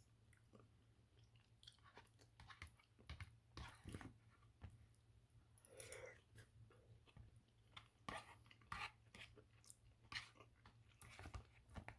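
Faint close-up chewing of a microwaved chicken marsala dinner, heard as many short, irregular mouth sounds.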